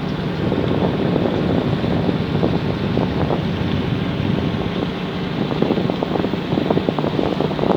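Passenger ferry's engines running with a steady low hum, under wind gusting and buffeting the phone microphone.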